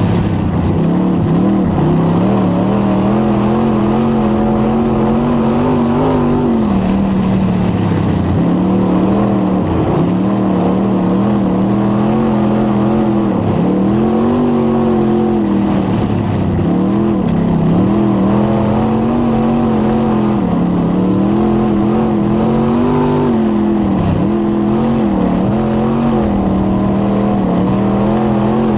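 Late model race car's V8 engine running hard, its pitch falling and climbing again every three to four seconds as the throttle is lifted for each turn and reapplied on the straights.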